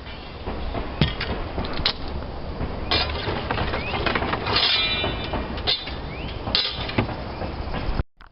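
Irregular sharp knocks and clatter of slate roofing work, about eight hard strikes a second or so apart over a steady low rumble; the sound cuts off abruptly near the end.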